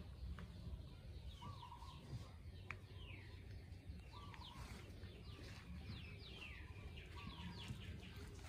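Birds calling: many quick falling whistles, with a lower short call repeating about every three seconds, over a faint low rumble.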